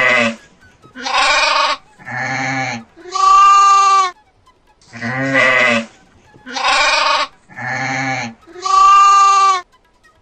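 Goat bleating: a run of four loud bleats, then the same four bleats again in the same order.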